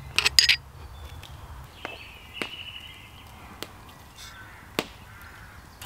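A bird's harsh call of a few quick notes just after the start, then a thin held note and a few sharp light clicks.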